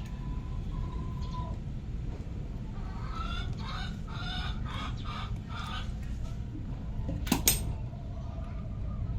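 Chickens clucking in a run of short calls starting about three seconds in, over a steady low rumble. About seven seconds in there is a single sharp knock, the loudest sound.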